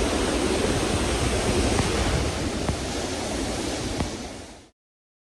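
Steady roaring rush of Niagara Falls' falling water, with wind gusting on the microphone; the sound fades out quickly about four and a half seconds in and is followed by dead silence.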